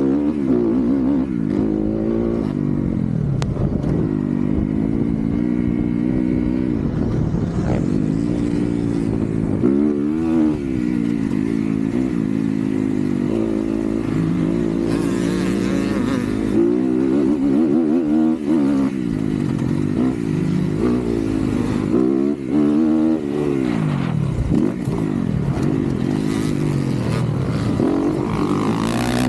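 Motocross dirt bike engine under hard throttle, its pitch climbing and falling again and again as the rider revs, shifts and backs off, with some clattering.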